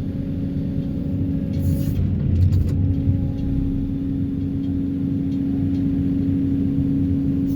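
Excavator working a vibro hammer to pull sheet piles: a steady low rumble with a steady hum over it, which breaks off briefly about two seconds in.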